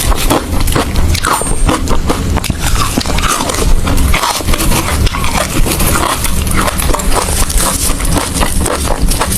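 Ice being bitten and chewed close to the microphone: loud, continuous crunching and cracking.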